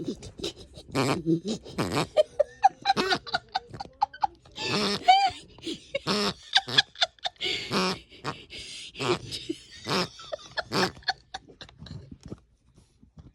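Six-month-old puppy playing with a chew toy under a bed, making a run of short, irregular grunts and squeals with brief gaps between them.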